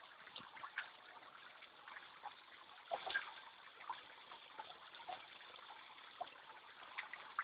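Faint trickling and splashing of water running from a small pump-fed waterfall, a cut-down plastic bottle spout, into a pond, with small irregular splashes over a steady patter.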